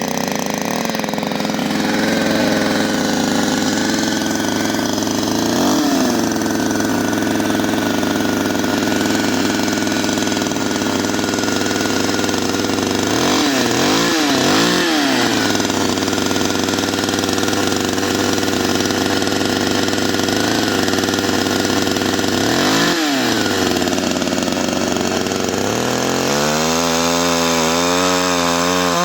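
CanFly 54.6 cc two-stroke chainsaw engine idling steadily, with short throttle blips several times (twice in quick succession about halfway through). Near the end the engine speed starts rising and falling rapidly in an uneven warble.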